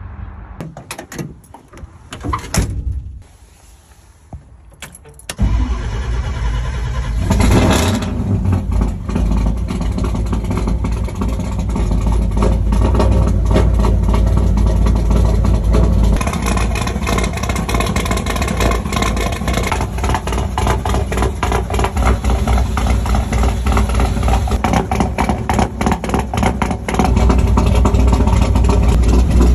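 A Bronco's 545-cubic-inch big-block V8 on a cold start: short cranking sounds, a pause, then it catches about five seconds in, revs once and settles into a steady idle through the exhaust. It gets louder again near the end.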